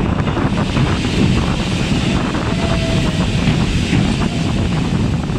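Steady low rumble of a Shark brake van running along the rails, with wind buffeting the microphone.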